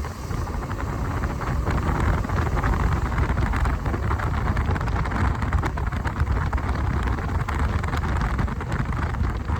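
Motorcycle on the move: steady wind noise buffeting the microphone over the low running of the bike and its tyres on the road.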